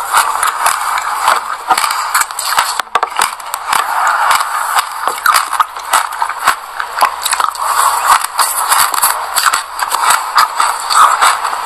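Close-up chewing of a mouthful of white sesame seeds with passion fruit pulp: a dense, continuous crackle of many tiny crunches.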